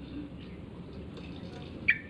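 Yellow-vented bulbul (trucukan) giving a short, sharp call note near the end, over a low steady background hum with faint chirping.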